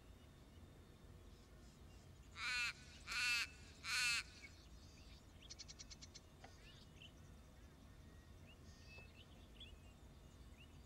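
Little raven (Corvus mellori) giving three harsh, guttural caws in quick succession, each short and about three quarters of a second apart, starting about two seconds in. A brief rapid rattle and faint high chirps of small birds follow.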